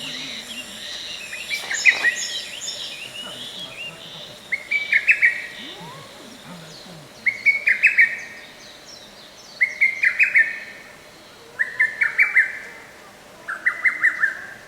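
Lesser cuckoo singing its quick, staccato song phrase of five or six notes, repeated five times about every two seconds from about four seconds in. Other bird calls are mixed in during the first few seconds.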